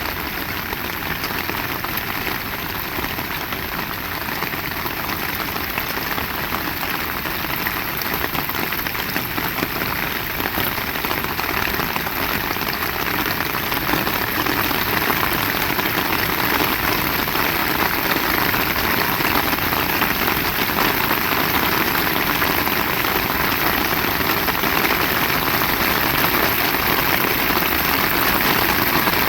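Heavy rain pouring steadily onto surfaces, a dense even hiss that grows gradually louder through the second half.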